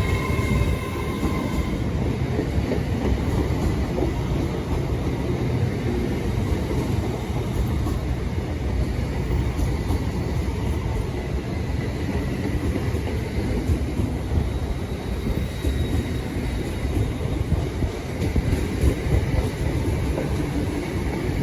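LNER Azuma (Class 801 electric multiple unit) departing, a steady rumble of wheels on rail and running gear as the train pulls out, with a faint steady whine above it.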